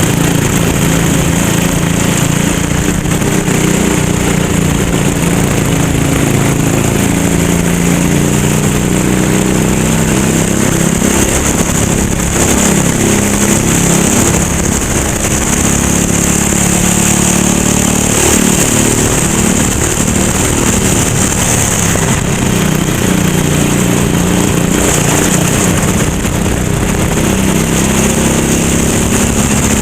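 Go-kart engines racing, their pitch rising and falling over and over with the throttle, with several engines at different pitches overlapping.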